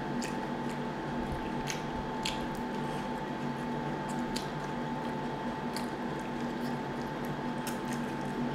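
Close-miked eating sounds: wet chewing and mouth smacks with scattered soft clicks at irregular moments, over a steady faint hum.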